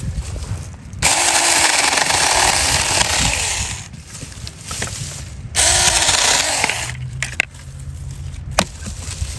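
Mini 4-inch cordless electric chainsaw running in two bursts while cutting branches: the first starts suddenly about a second in and lasts nearly three seconds, the second is shorter, starting just past halfway.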